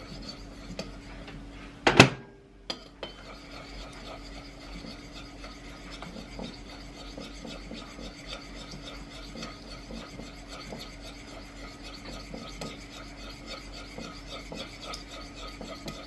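A sharp knock about two seconds in, then continuous light scraping and rubbing, like kitchenware being handled, over a steady low hum.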